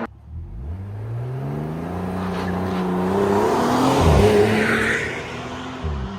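Car engine through an aftermarket exhaust, accelerating: the exhaust note climbs steadily in pitch and loudness. It dips and peaks about four seconds in, then eases off near the end.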